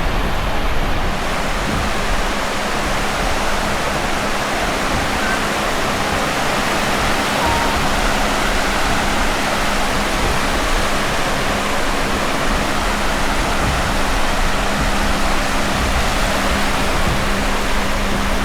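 Steady rushing noise of sea surf washing on a beach, with wind buffeting the microphone.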